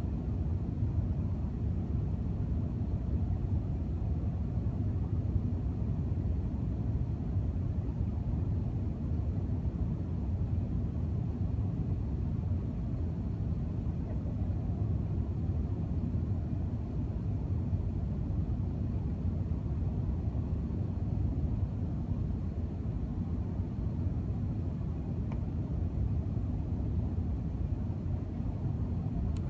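Steady low rumble of cabin noise inside an Emirates jet airliner during the landing.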